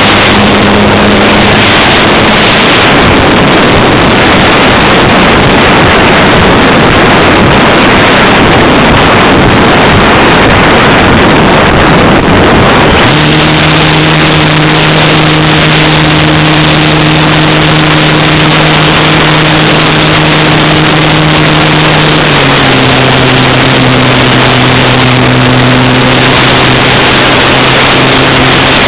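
Radio-controlled Cessna 182 model aircraft's motor and propeller, heard under loud rushing wind on the microphone. Partway through, a steady motor hum comes up, then steps down to a lower pitch about two-thirds of the way in as the throttle is eased.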